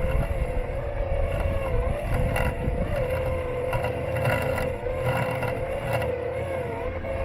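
Robot lawn mower's electric motor running with a steady whine that wavers slightly in pitch, heard from on the mower's body, over a low rumble, with a few short ticks.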